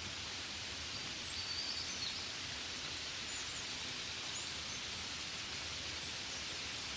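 Steady rain falling, an even hiss. A few faint, short, high bird chirps come between about one and four and a half seconds in.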